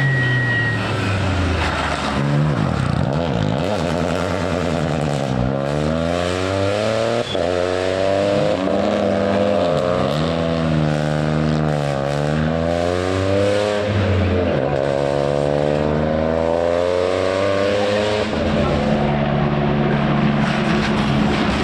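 Rally car engine working hard through the gears, its pitch climbing and dropping back several times as it shifts, then settling to a steadier, lower note near the end.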